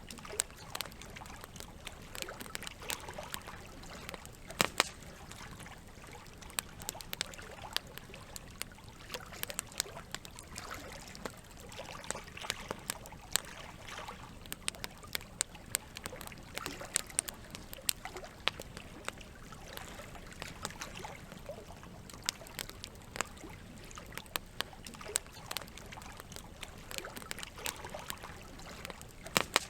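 Campfire crackling, with frequent irregular sharp pops, over a steady background of flowing, trickling water.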